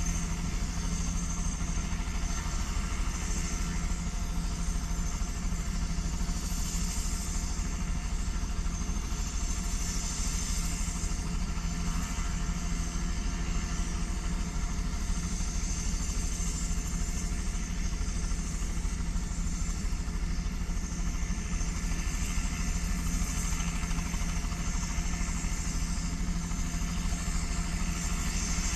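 Crop-dusting helicopter running steadily on the ground, its engine and rotor giving a fast, even low beat with a held hum.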